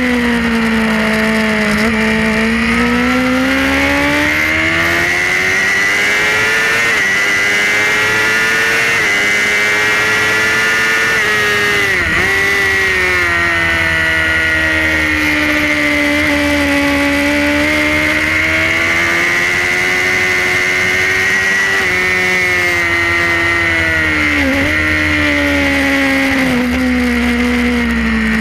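Onboard sound of a Suzuki GSX-R's inline-four engine at racing speed. The engine note climbs and falls with the throttle, with two brief sharp dips about twelve and twenty-four seconds in.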